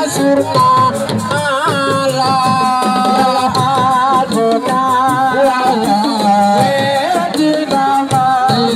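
Senegalese assiko band music: a sung melody with wavering vibrato over dense hand percussion.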